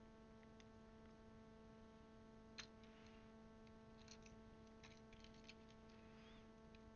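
Near silence with a steady electrical hum and faint, scattered plastic clicks of keycaps being handled and pressed onto a mechanical keyboard. The clearest click comes about two and a half seconds in, and a small cluster follows around four to five seconds in.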